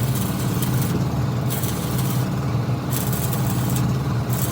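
An engine running steadily, with a high hiss that comes and goes about every second and a half.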